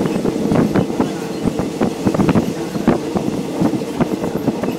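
Passenger train running along the track, heard from inside the carriage: a steady rumble with frequent irregular knocks and rattles from the wheels and coach.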